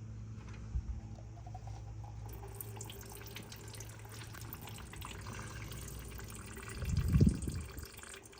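Brake fluid trickling and dripping out of an opened bleeder screw into a catch container while the brakes are bled, with a louder low bump near the end.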